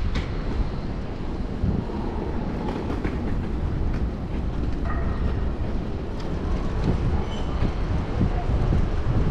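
Steady low rumble of city street traffic mixed with wind on the microphone, with a few faint brief squeals near the middle.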